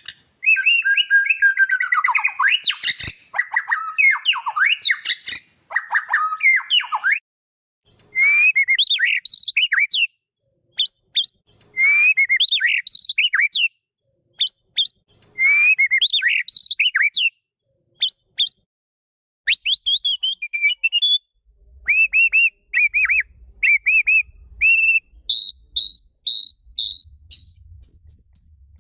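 White-rumped shama (murai batu) singing: loud, varied whistled phrases broken by short pauses, ending in a fast run of short repeated notes that steps up in pitch in three stages.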